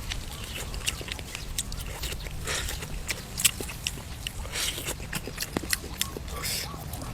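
Close-up eating sounds of a person chewing braised duck: irregular wet clicks and smacks of biting and chewing.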